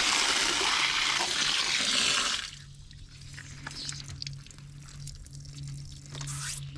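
Hose nozzle spraying water onto the AC unit's coil, shutting off abruptly about two and a half seconds in. Water then drips and trickles over a low steady hum.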